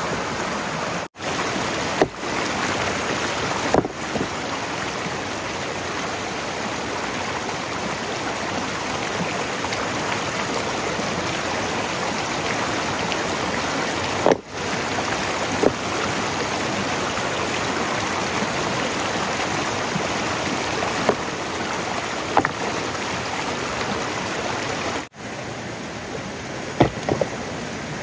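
Steady rush of flowing water, broken by a few light clicks and three abrupt momentary dropouts.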